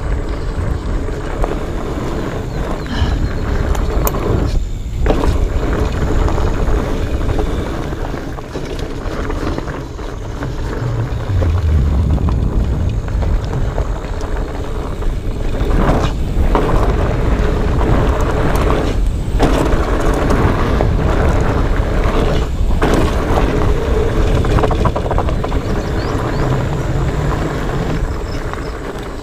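Wind buffeting the microphone and fat-bike tyres rumbling and rattling over rocky trail on a fast descent, with a few brief lulls.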